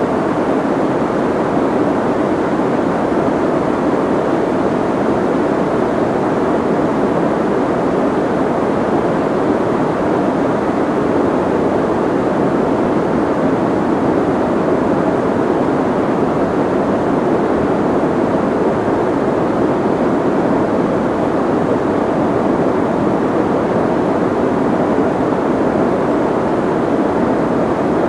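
Soft white noise: a steady, even hiss with most of its weight in the low and middle range and little top-end sizzle, unchanging in level.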